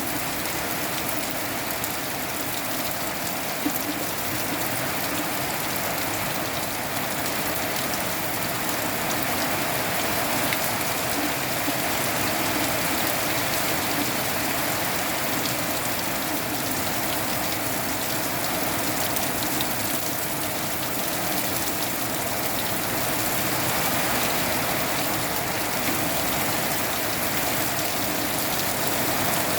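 Steady rain falling: a dense, even hiss dotted with many small drop ticks.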